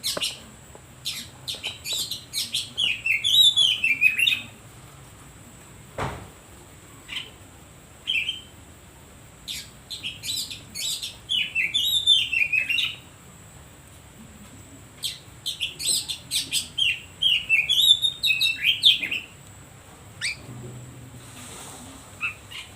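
Oriental magpie-robin singing: three bursts of rapid, varied whistles and sweeping notes, with short pauses between them. One sharp click comes about six seconds in.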